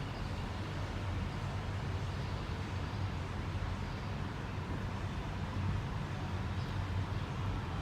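Steady low rumble of a moving vehicle's road noise, even and unbroken.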